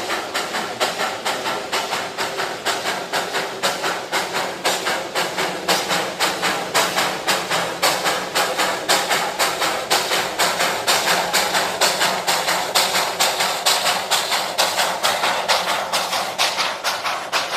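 Darjeeling Himalayan Railway toy train running, with a fast, even beat and a steady hiss.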